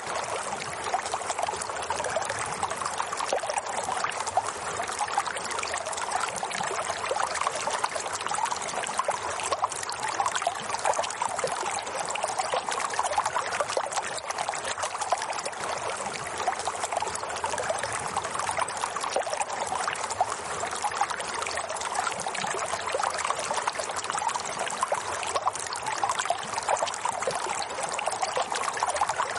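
Running water trickling and splashing steadily, like a small stream flowing over stones, with no pause or change.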